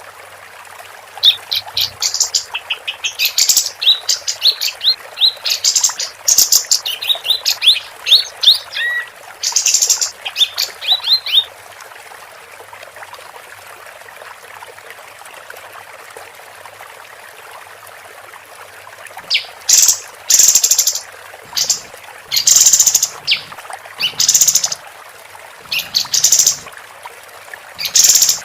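Female pied triller calling: bursts of rapid, high chattering notes, a pause of about seven seconds midway, then more loud bursts. A steady hiss runs underneath.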